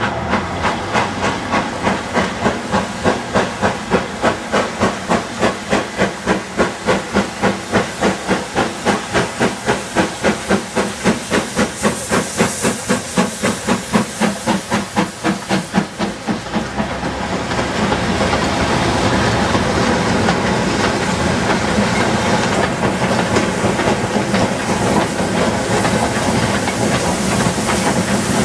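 Steam locomotive working hard, its exhaust beating steadily at about four beats a second. About two-thirds of the way through the beat gives way to a louder, steady rush of hissing noise.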